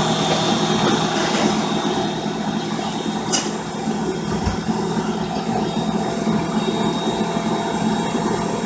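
Electric mixer motor running steadily with a constant hum, its beater churning a thick yeast dough of flour and water.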